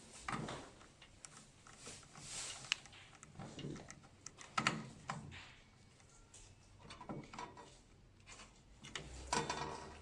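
Small plastic and metal parts of a printer's ink pump assembly being handled and fitted by hand: irregular clicks, taps and short scrapes.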